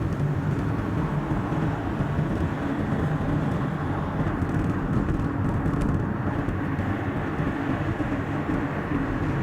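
Car driving on a highway: steady engine and tyre noise.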